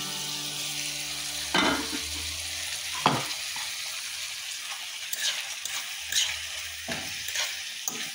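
Sliced onion, tomato and sweet pepper sizzling as they fry in oil in a nonstick frying pan. There are two sharp knocks on the pan about a second and a half and three seconds in, and scattered crackles and knocks near the end.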